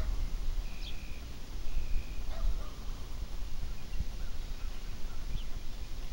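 A bird calling in short high chirps, with two longer even-pitched notes about a second apart near the start, over a low steady rumble.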